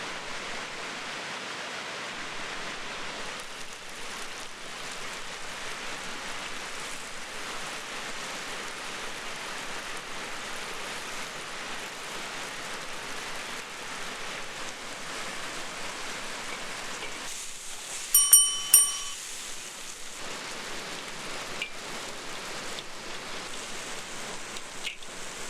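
Steady hiss throughout, with two sharp metal clinks about two-thirds of the way in that ring briefly, like cookware or a utensil striking metal.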